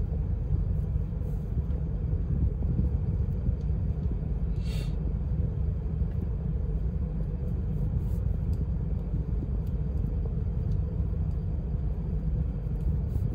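Steady low rumble inside a car's cabin, the car standing still with its engine idling. A brief faint hiss about five seconds in.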